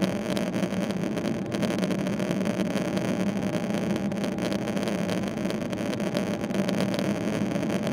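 Steady jet-engine and airflow noise inside the cabin of a Boeing 777-300ER, from its GE90-115B turbofans, with a constant low hum.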